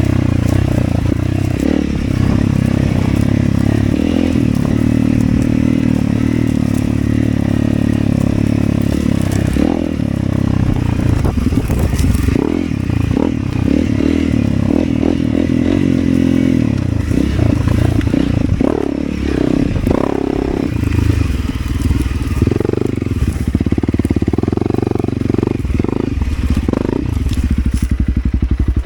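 Motorcycle engine running under way off-road, holding steady revs at first, then from about ten seconds in the revs rising and falling over and over.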